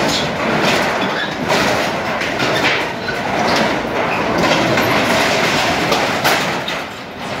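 Rusted steel shipping container being torn apart: a continuous clatter of metal crunching, scraping and banging, with sharp knocks throughout.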